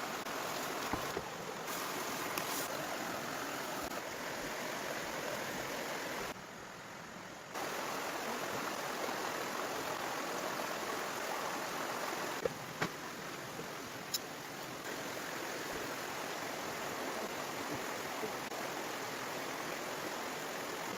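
Steady rushing of flowing water, with a brief quieter gap about six seconds in and a few sharp clicks a little after the middle.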